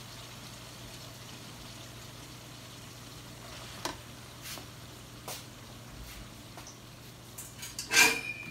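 Ground meat and sausage slices sizzling steadily in an electric skillet, with a few light clicks from about halfway and a louder brief clatter with a short ring about eight seconds in.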